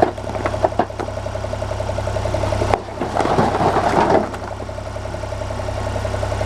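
Tractor engine running steadily at idle, with a few sharp clicks in the first second and a brief busier stretch of noise around three to four seconds in.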